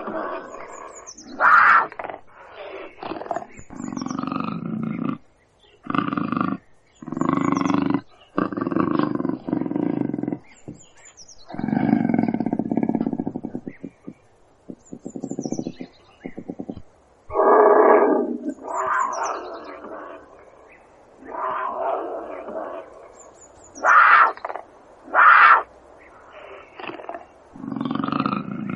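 A large wild animal calling in a series of short roars and grunts, each about a second long and separated by brief gaps, with short high chirps above them.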